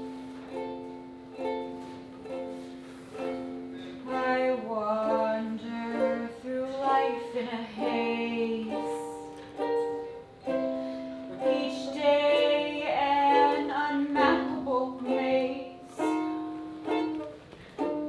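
Ukulele playing a song, with a voice singing over it from about four seconds in.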